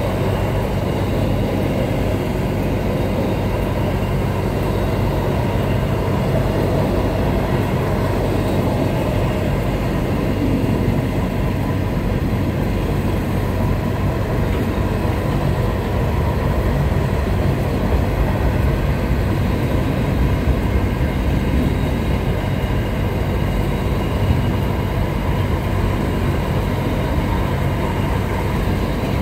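Freight train rolling past: a steady, continuous rumble of wagons on the rails.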